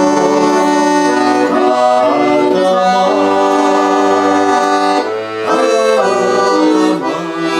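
Accordion playing a melody over low bass notes and chords between the sung lines of a slow song.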